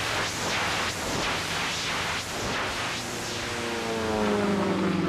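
Sukhoi aerobatic plane's nine-cylinder radial engine and propeller running hard through a tumbling manoeuvre, the sound swelling and fading about twice a second as the plane flips end over end. Near the end the engine's pitch drops.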